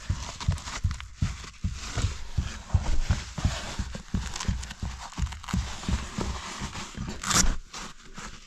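A caver moving through a tight rock squeeze: irregular knocks and scrapes of body, knees and gear against the rock, a few a second, with a sharper scrape near the end.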